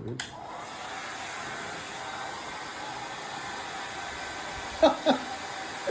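Handheld hair dryer clicking on just after the start, then blowing with a steady whirring hiss.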